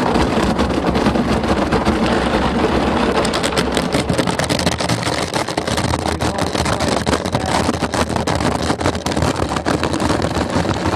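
Automatic car wash equipment spraying and scrubbing the truck, heard from inside the cab with the windows shut: a loud, dense wash of water noise with fast, irregular slapping from about three seconds in.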